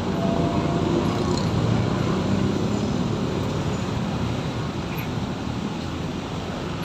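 Steady road traffic noise of passing vehicles, slowly fading.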